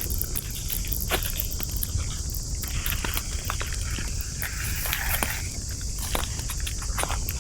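Wood campfire crackling, with irregular sharp pops and snaps over a steady high hiss and a low rumble. There is a brief denser hiss about five seconds in.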